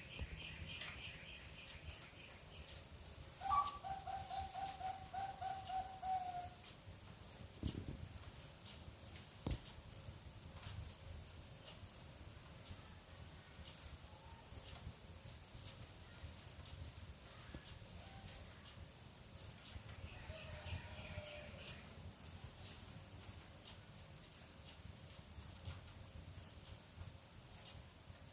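Zebra dove (Bangkok perkutut) cooing: a higher opening note followed by a rapid string of low repeated notes lasting about three seconds, a few seconds in, and a shorter coo about two-thirds of the way through. High short chirps from another bird repeat about once a second.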